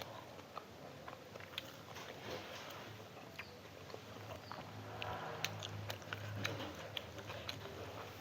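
A person chewing food close to the microphone, with many small wet mouth clicks. A low steady hum comes in about five seconds in and lasts a second or so.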